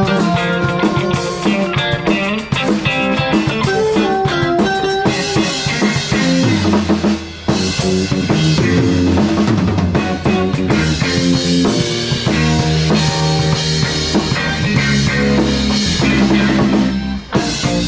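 Live rock band playing: a drum kit with snare and bass drum under guitar and bass lines, with a brief break about seven seconds in.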